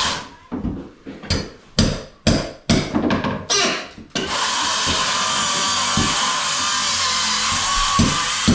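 Tool work: a run of irregular sharp knocks and scrapes, then about halfway through a steady loud whirring noise sets in and keeps going.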